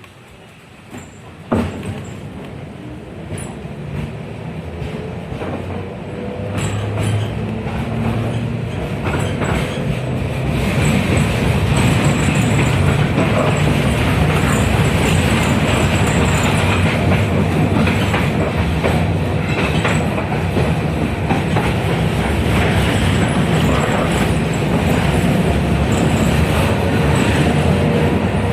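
A 71-619KT tram heard from inside the car: a sharp knock about a second and a half in, then the tram pulls away. The running sound of its KR-252 traction motors and wheels grows louder over the first ten seconds or so, then holds steady, with wheels clacking over the rail joints.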